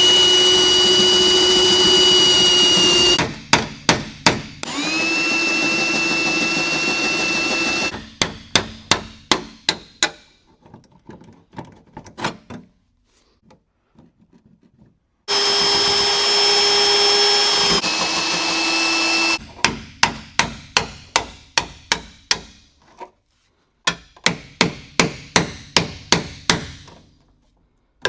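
A drill boring out spot welds in car-body sheet metal, running in bursts of a few seconds with a steady high whine. These alternate with runs of quick hammer blows on the panel, about four a second, separating the spot-welded panels.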